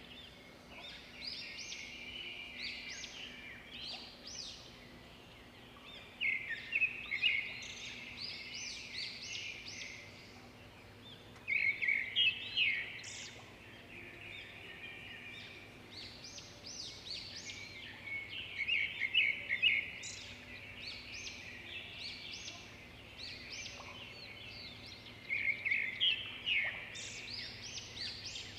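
Songbird singing, a burst of quick chirping notes repeated about every six to seven seconds, with quieter chattering calls in between.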